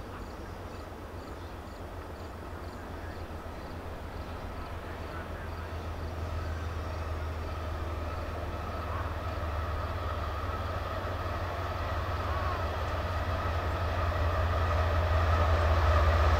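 CSX freight train's diesel locomotive approaching, its low engine drone growing steadily louder, with a steady whine coming in above it in the second half.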